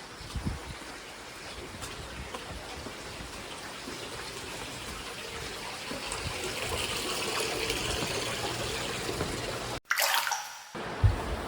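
Water running steadily into a hot spring bath, growing louder partway through, with a sudden break for about a second near the end.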